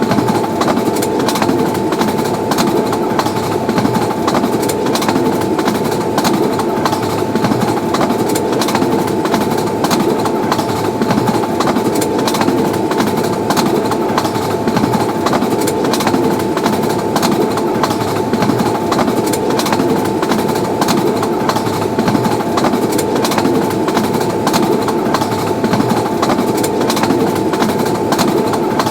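A long passenger train running past at speed: a steady rail rumble with rapid clicking of wheels over the rail joints and a thin steady whine above it.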